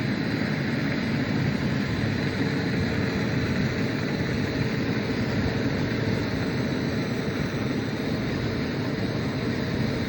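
Diesel-fired foundry melting furnace running steadily: a continuous burner and combustion-air blower noise, strongest low down. The combustion air has been cut back, so the burn is running rich.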